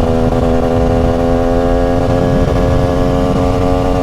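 TM SMR 300 supermoto's single-cylinder two-stroke engine running at steady revs under way, its pitch holding almost level with a slight rise, over low wind rumble.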